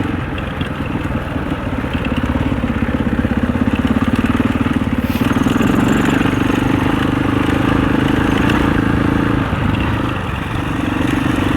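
Husaberg 650 single-cylinder four-stroke enduro motorcycle engine running at steady low revs, easing off briefly near the end and then picking up again.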